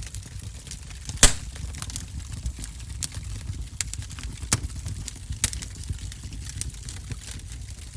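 Wood fire in a fireplace crackling, with irregular sharp pops over a low steady rumble and one loud pop about a second in.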